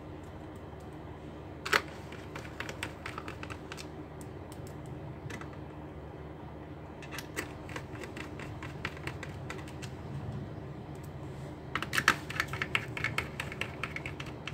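Small plastic clicks and taps on a laptop, coming in quick runs like keys being pressed, with one sharper click about two seconds in and a dense run near the end.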